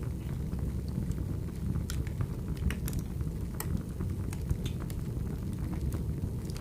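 Wood fire burning: a steady low rumble with sharp crackles and pops at irregular moments.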